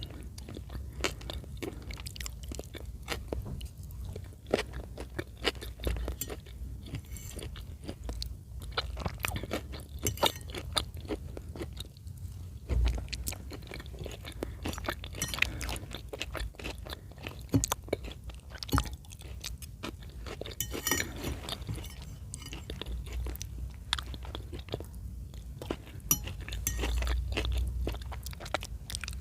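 Close-miked chewing of chicken in cream sauce: wet mouth clicks and smacks with crunchy bites, many short sounds one after another with no steady rhythm.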